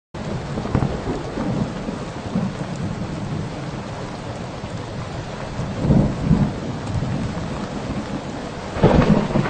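Recorded thunderstorm: steady heavy rain with rumbles of thunder, cutting in suddenly right at the start, with louder rolls of thunder about six seconds in and again near the end.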